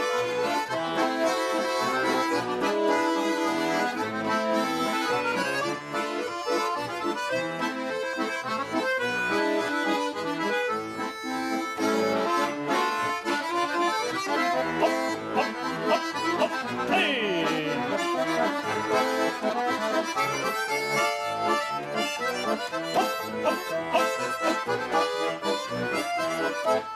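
Bayan (Russian button accordion) playing a lively chastushka tune on its own between sung verses, with quick chords and running melody.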